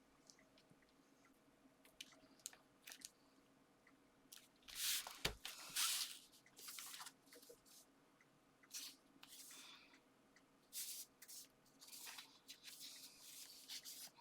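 Card and paper being handled and pressed together, giving intermittent short rustling and crinkling sounds, loudest about a third of the way in and again through the second half.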